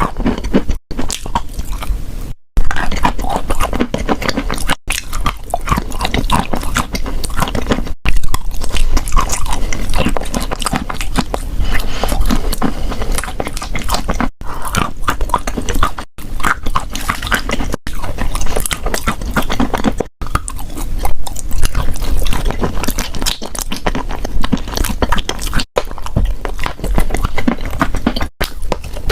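Close-miked biting and chewing of edible chalk: dense, crumbly crunching at a steady loud level. Brief abrupt gaps every few seconds break it up, where the recording is cut.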